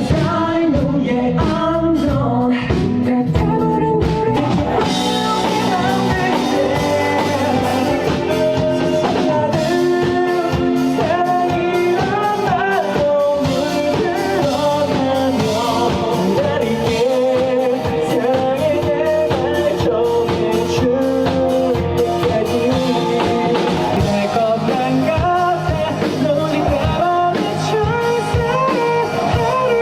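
A male voice singing a pop ballad melody with a band rehearsal accompaniment of guitar and drums.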